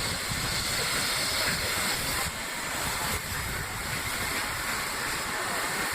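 Steady hiss of steam from the 4-6-2 Pacific steam locomotive Tornado, a Peppercorn A1, with no exhaust beats.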